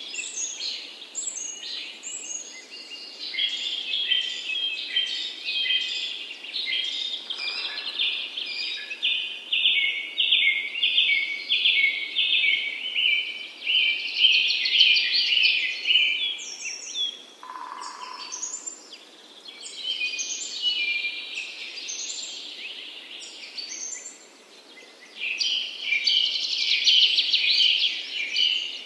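Wild birds singing: several birds chirping and trilling at once in quick, repeated high notes, with a short lull about four-fifths of the way through.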